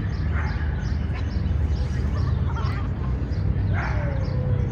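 City park ambience: a steady low rumble of distant traffic under small birds chirping over and over. A few brief louder sounds stand out, one near the end sliding down in pitch.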